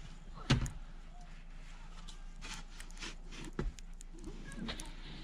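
A sharp thump about half a second in, a smaller knock later, and scattered light clicks and scrapes.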